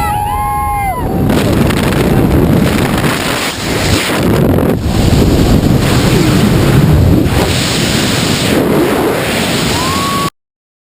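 Loud, steady rushing of wind buffeting the microphone, which cuts off abruptly near the end.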